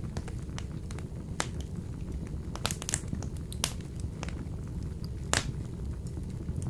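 Wood burning in a wood-burning stove: a steady low rumble of the fire with irregular sharp pops and crackles, the loudest pop about five seconds in.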